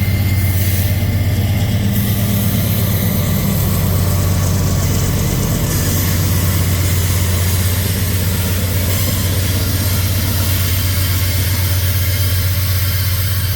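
Diesel locomotive engine running steadily with a deep, even drone.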